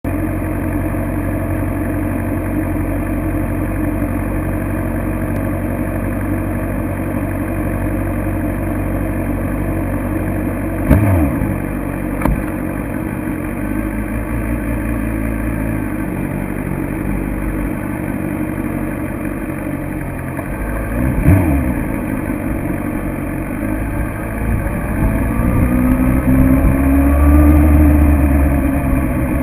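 2006 Suzuki GSX-R750's inline-four engine idling steadily, with two short loud swells about eleven and twenty-one seconds in. Near the end the revs climb and the engine gets louder.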